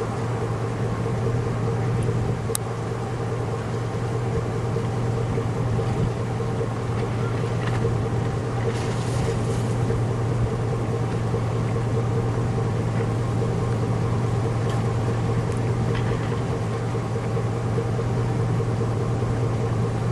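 Steady in-cabin drone of a car being driven: engine and tyre noise with a constant low hum, and a few faint clicks.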